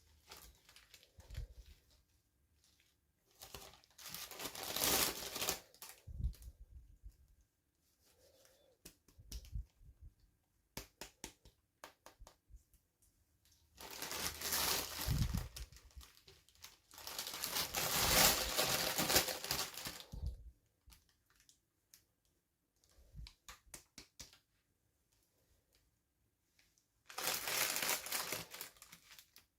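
Toy packaging being opened by hand: crinkling and tearing in four bursts of a few seconds each, with scattered small clicks and taps between them.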